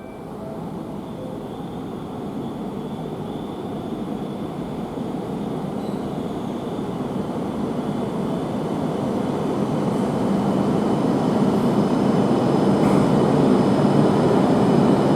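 Tohoku Shinkansen train approaching the platform, its rail and running noise rumbling and growing steadily louder as it draws nearer.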